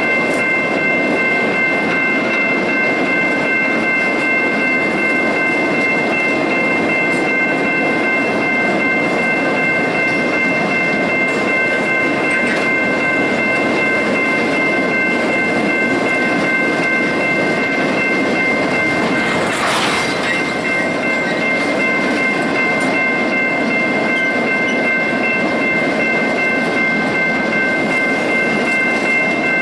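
Iron ore train rolling past: a steady rumble of railcars on the track, with a steady high whine held throughout and one brief sharp crack about 20 seconds in.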